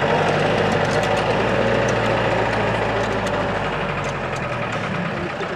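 A 4x4 jeep's engine running steadily under load as it grinds up a rough off-road mountain track, heard from inside the cabin, with scattered short clicks and rattles over it.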